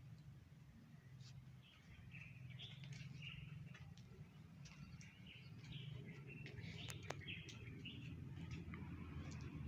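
Faint small birds chirping in many quick, short notes over a steady low hum, with one sharp click about seven seconds in.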